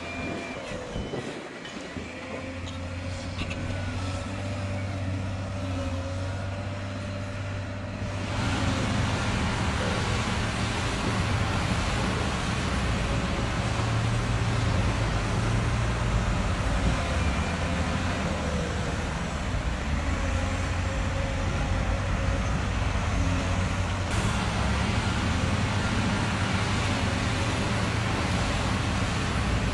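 Truck engine running steadily, with a wavering whine above it; about eight seconds in it grows louder and rougher, with a wide rushing noise over the engine to the end.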